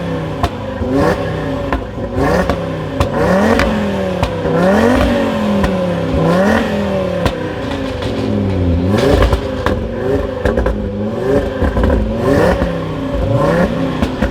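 Tuned Audi RS3's turbocharged five-cylinder engine revving, its pitch climbing and dropping again about once a second, with sharp cracks from the exhaust in between.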